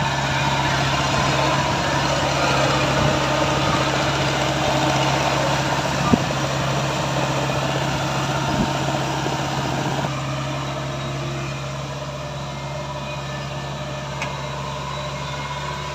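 Engine of a harvesting machine running steadily with a low hum. About ten seconds in, the higher mechanical noise drops away, and there is a single sharp knock near the middle.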